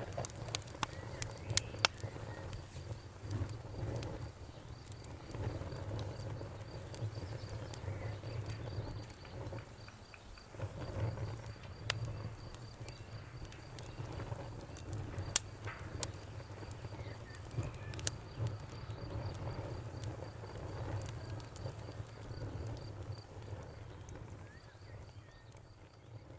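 Wood campfire crackling, with scattered sharp pops over a low rumble of burning, while a cricket chirps steadily in an even high pulse. It all fades out near the end.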